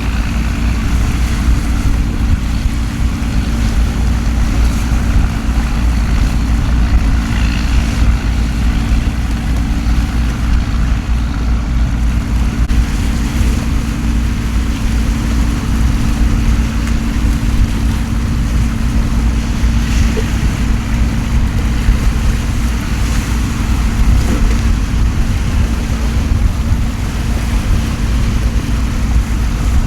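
Steady storm noise at a harbour: heavy rain hissing, with a deep continuous rumble of wind and water underneath.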